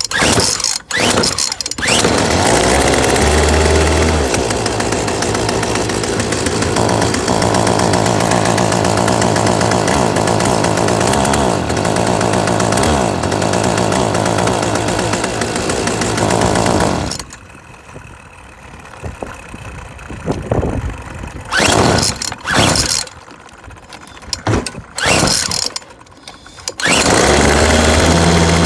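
Yardworks 25cc two-stroke string trimmer engine being pull-started on a freshly fitted, not-yet-adjusted carburetor. It catches after a couple of pulls and runs for about fifteen seconds with its speed rising and falling, then dies. Several more pulls of the recoil starter follow, and it fires again near the end.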